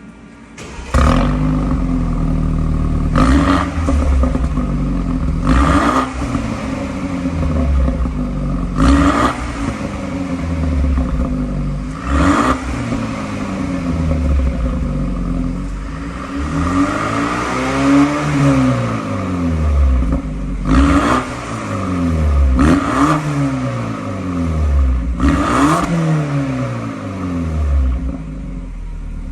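BMW F30 320i's 2.0-litre turbocharged four-cylinder being free-revved through an aftermarket variable (valved) exhaust. There are about eight quick throttle blips, each starting sharply and falling back toward idle, and one slower, longer rev that rises and falls around the middle.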